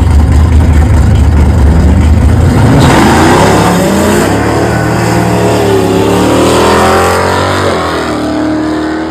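Turbocharged engine running at high load: a steady heavy drone, then about three seconds in the revs climb and it pulls hard for several seconds before easing off and fading near the end.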